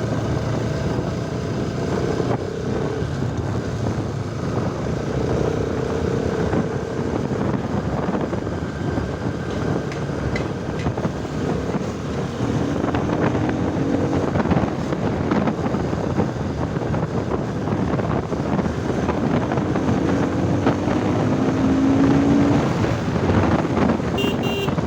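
Kawasaki Ninja ZX-10R's inline-four engine running on the move, heard through heavy wind noise on the microphone, its faint engine note slowly rising and falling in pitch.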